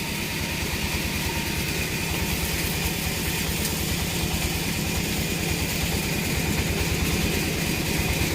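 Heavy engine running steadily with an even low throb, growing slightly louder toward the end.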